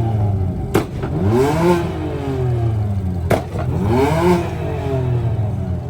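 A car engine being revved hard twice, its pitch climbing and falling back each time, with a sharp crack at the start of each rev.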